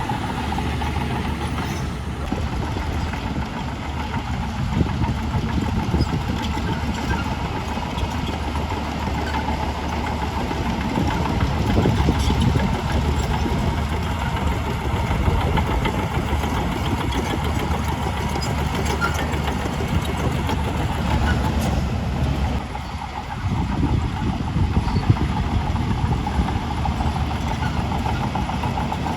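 Heavy diesel engine of earthmoving machinery running steadily under a low, even hum, with a few faint clanks over it. The level drops briefly about 23 seconds in, then picks up again.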